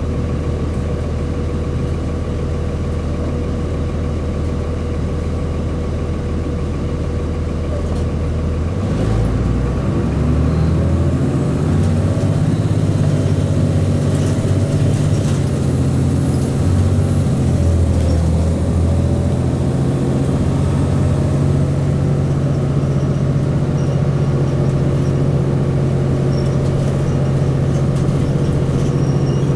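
Cummins ISC inline-six diesel of a Blue Bird CS transit bus idling steadily, then about nine seconds in the engine note climbs and changes for several seconds as it is put under load, before settling into a steady, higher run.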